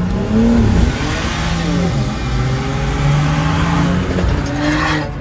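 BMW engine heard from inside the cabin, accelerating hard: its note climbs and drops back a few times as it pulls, over a steady hiss.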